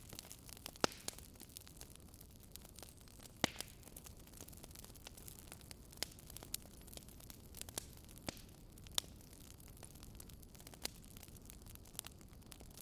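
Wood campfire crackling: irregular sharp pops and snaps, the strongest about a second in and again near three and a half seconds, over a steady low background rush.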